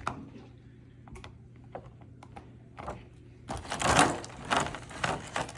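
Toy packaging being handled and unwrapped: scattered light clicks and taps, then from about three and a half seconds in a denser crinkling and rustling.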